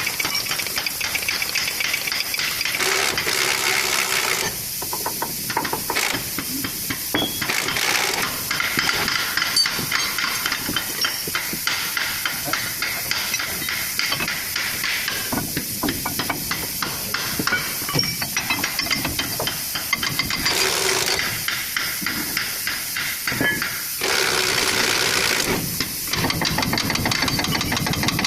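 Workshop tool work on the truck's torque-rod bushings: rapid, rattling hammering in repeated bursts under a steady hiss of air.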